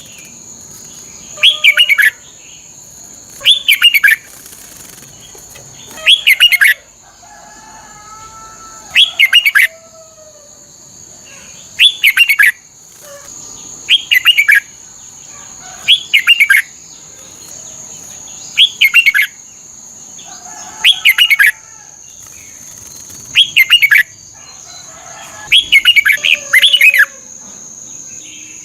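Red-whiskered bulbul singing its short, loud whistled phrase over and over, about once every two seconds, with two phrases close together near the end. A steady high-pitched hum runs behind it, and a few faint softer calls come between the phrases.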